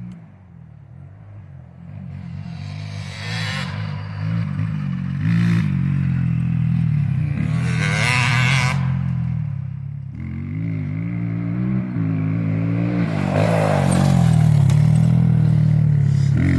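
Dirt bike engine running under changing throttle on a motocross track, its pitch rising and falling, with a few short noisy flares along the way and getting louder near the end.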